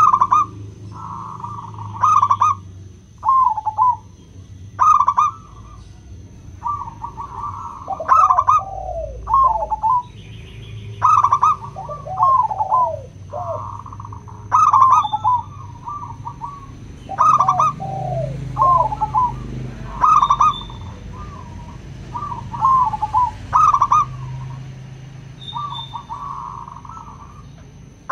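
Zebra doves (local perkutut) cooing: short, rolling, high-pitched coos repeated every second or two, with lower coos joining in at times.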